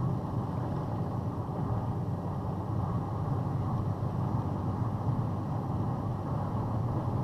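Heavy rain falling, heard as a steady, muffled low rush without separate drops or breaks.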